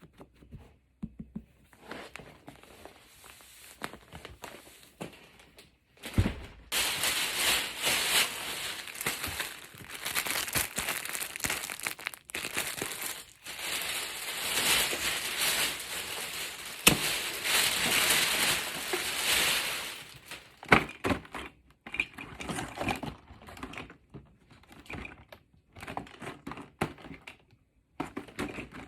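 Packaging crinkling and rustling as it is handled and unwrapped. It is soft for the first few seconds, then dense and loud from about six to twenty seconds in, then breaks into scattered crinkles and small knocks.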